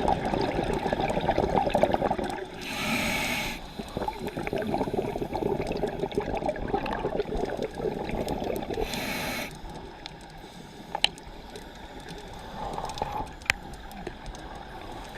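Scuba diver breathing on a regulator underwater: a long bubbling rush of exhaled bubbles, broken twice by the short hiss of an inhale through the regulator, about three and nine seconds in. It is quieter in the later part, with a couple of sharp clicks.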